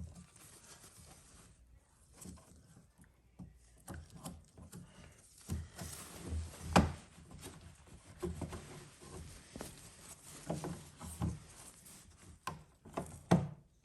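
Wiping down the front of a washing machine around the pump filter flap: irregular rubbing with scattered light knocks and taps, the loudest knock about seven seconds in.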